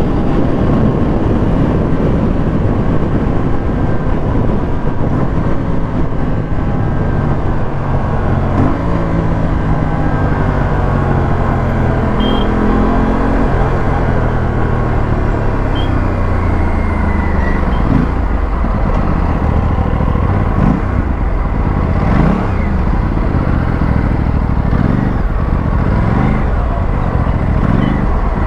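Aprilia RS457's parallel-twin engine running under way, its revs rising and falling as it accelerates and slows. From a little past halfway it revs up in a quick series of short rising sweeps, one after another, over a steady rush of wind and road.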